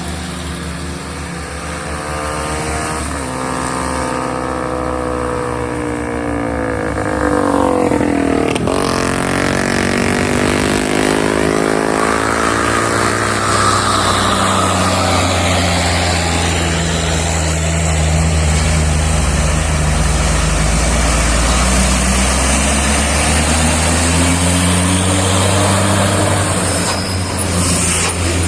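Heavy truck engine labouring up a steep climb. A vehicle goes by about eight seconds in, then a deep engine note runs hard and steady and grows louder.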